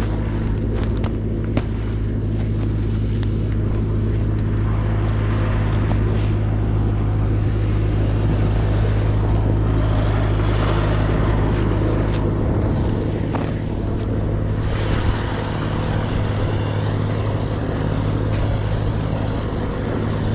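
Snowblower engine running steadily at a constant speed, with a few light knocks.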